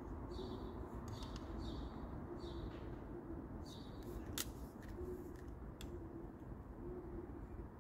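Birds calling: short high chirps repeating about once a second over a low, repeated cooing call. A sharp click sounds about four and a half seconds in.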